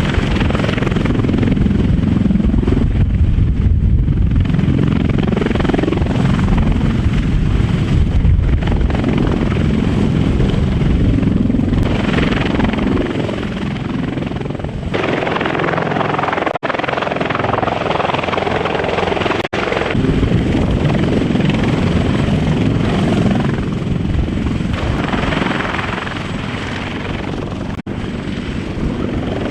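Heavy three-engine CH-53E Super Stallion helicopter running close by: a loud, steady rotor and turbine noise with a deep low end that swells and eases, briefly cut out three times.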